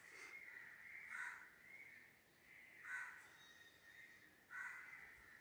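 Faint bird calls repeated four times, roughly every one to two seconds.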